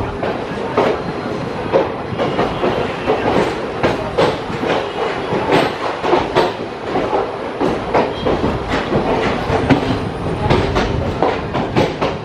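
Express passenger train rolling along the track, its wheels clattering over rail joints in repeated, irregular clacks above a steady rumble.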